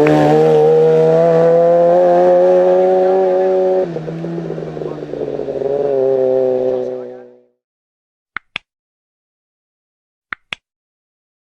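Hill-climb race car engine running hard at high revs, its pitch holding and rising slightly, with a sudden drop about four seconds in like a gear change before it picks up again and fades away. Then silence, broken by two pairs of short clicks.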